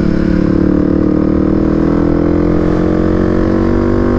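Kawasaki motorcycle engine running under way, its pitch rising slowly and steadily as the bike gathers speed.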